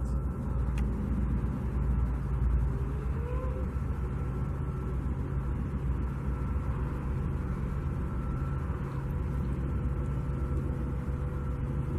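Steady low rumble of distant vehicle engines and machinery, with a faint steady whine held above it and a short rising tone about three and a half seconds in.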